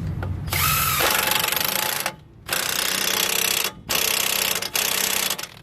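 Impact gun hammering in four bursts with short pauses between them, running a 24 mm nut down to tighten the lower control arm bolt while the bolt head is held with a wrench.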